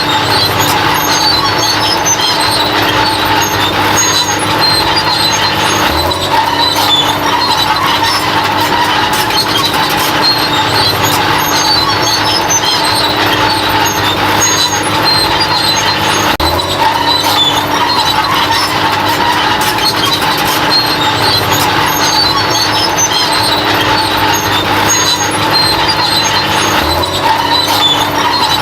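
Bulldozer running steadily, a constant machine drone with a held whine over it and scattered short high squeaks. A brief dip recurs about every ten seconds.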